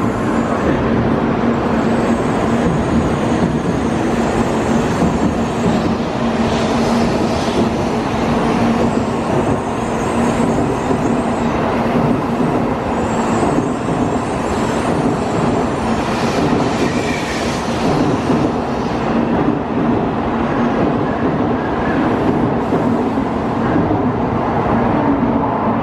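JR Central N700-series Shinkansen electric train pulling out of the station and rolling past close by. It makes a steady, loud rush of wheels on rail with a steady low hum under it.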